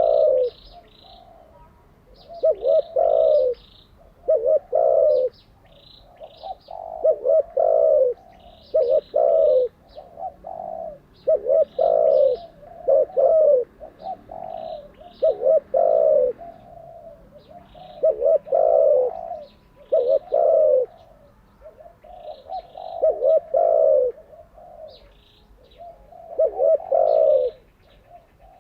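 Spotted dove cooing over and over, each phrase a short run of low coos about a second long, repeated every two seconds or so. Faint high chirps are heard between the phrases.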